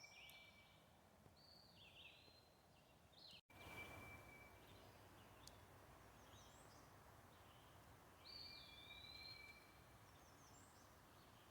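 Faint songbirds calling: a run of short whistled notes and chirps over a low, steady hiss. The sound drops out for an instant about three and a half seconds in.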